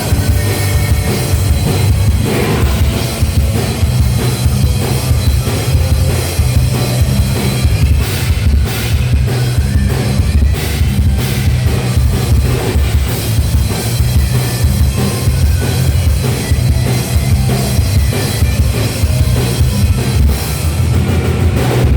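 Live rock band playing an instrumental stretch with no singing, the drum kit's kick and cymbals driving over a heavy, steady low end.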